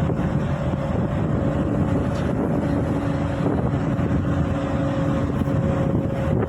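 Machinery aboard a utility vessel running steadily: a dense low drone with a constant whine over it, joined by a second, lower whine from about a second and a half in until about five seconds in.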